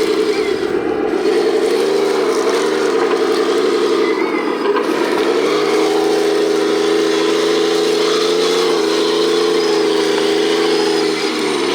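A 1/14-scale radio-controlled articulated dump truck running, a steady engine-like drone whose pitch dips briefly about two seconds in and again about four and a half seconds in, then settles slightly higher.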